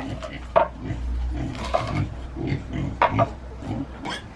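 Pigs grunting, short irregular grunts, while eating pomegranates.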